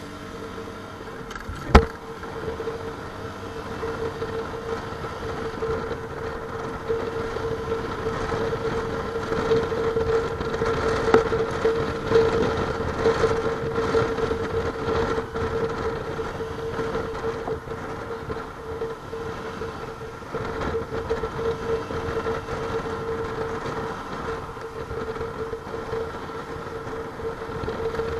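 Motorcycle running at a steady cruise, with a constant drone under road and wind noise, and one sharp knock about two seconds in.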